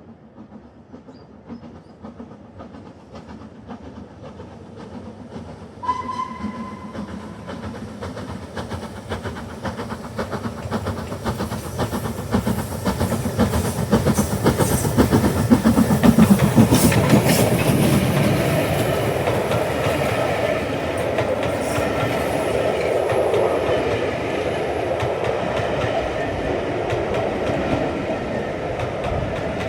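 LMS Black Five steam locomotive and its train approaching and passing, growing steadily louder and at its loudest about halfway through, with the wheels running over the rails. A short, steady high note, a whistle, sounds about six seconds in.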